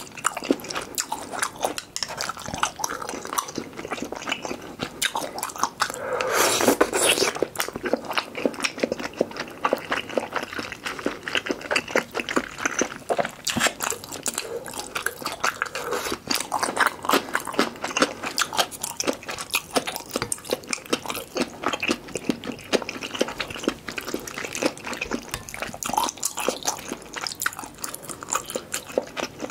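Close-miked mukbang eating sounds: a person chewing malatang noodles and toppings, with a dense run of small wet mouth clicks. There is a louder stretch about six to seven seconds in.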